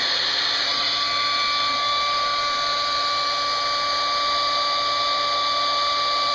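Hand-held hair dryer running steadily: a rushing hiss of blown air with a high motor whine.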